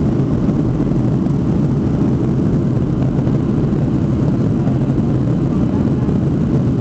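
Very noisy, steady rumble of a jet airliner's engines and runway roll heard inside the passenger cabin as the plane slows on the runway after landing.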